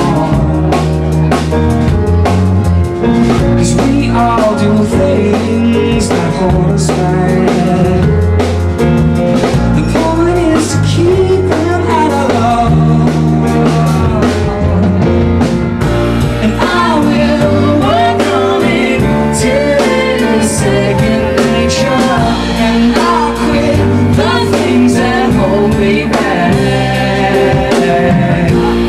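Live band performance of a slow song: piano and a drum kit, with a singing voice over them.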